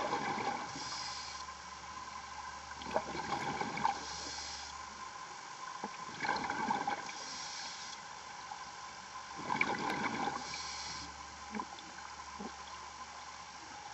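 A diver breathing through a scuba regulator underwater. Bubbling exhalations come about every three seconds, four times, each followed by the short hiss of the next inhalation through the regulator.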